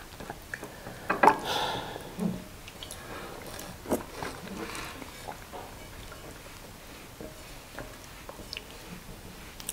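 Close-up eating sounds of konkonte (cassava dough) with peanut soup and chicken eaten by hand: chewing, lip smacks and soft wet squishes. Short scattered clicks throughout, with louder smacks about a second in and about four seconds in.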